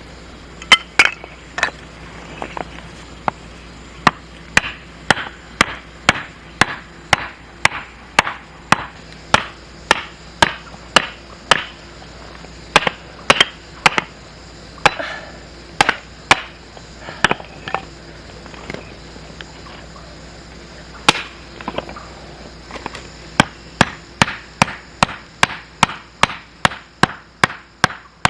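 Firewood being split with a knife: a steady run of sharp wooden knocks, about two a second, with a short break past the middle.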